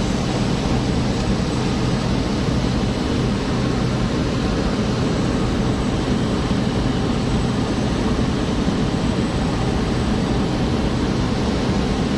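Steady, even drone of a small propeller airplane's engine and propeller, heard inside the cabin in cruise, with a constant low hum under the noise.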